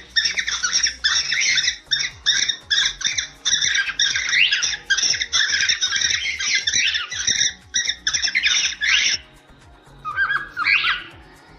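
Cockatiels singing and chattering: a dense run of rapid whistled chirps and squawks that breaks off about nine seconds in, then one more short call near the end.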